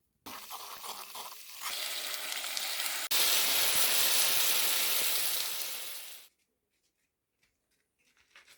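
Water running in a steady stream. It starts suddenly, gets louder about three seconds in, and cuts off abruptly about six seconds in.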